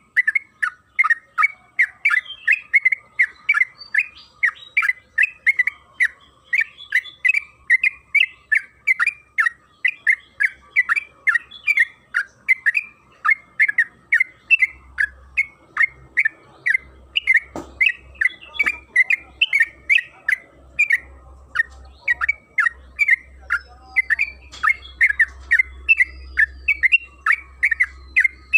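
Yellow-vented bulbul (trucukan) singing a long, rapid run of short, bubbling chirps, about three to four notes a second without a break. A faint low hum sits underneath from about halfway in.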